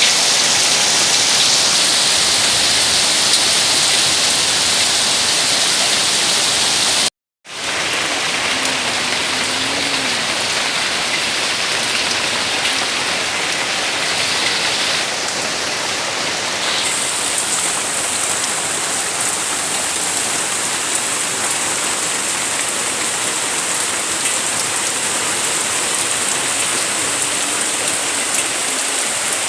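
Steady heavy rain falling, a dense even hiss of drops. It cuts out for a moment about seven seconds in and then resumes.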